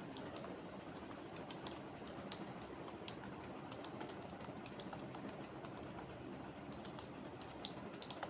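Computer keyboard typing: quick, irregular key clicks in uneven runs, over a faint steady background hum.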